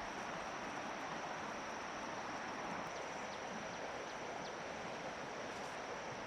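Steady rushing outdoor noise with a thin, steady high insect drone over it and a few faint short chirps about halfway through.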